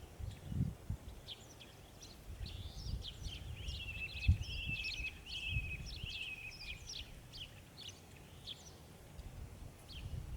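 Several songbirds chirping and singing, with one bird giving a longer trilled phrase in the middle. Under them is an irregular low rumble.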